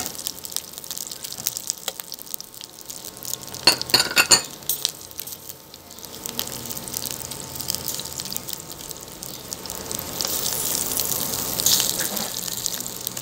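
Saba banana slices and bell pepper pieces sizzling in hot oil in a nonstick wok, with a quick cluster of clicks from tongs against the pan about four seconds in. The sizzling swells louder near the end as the pieces are turned.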